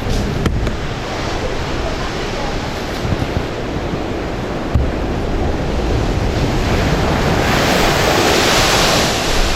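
Sea waves breaking and rushing at high tide, with wind buffeting the microphone; a wave surges in louder with a rising hiss about seven seconds in.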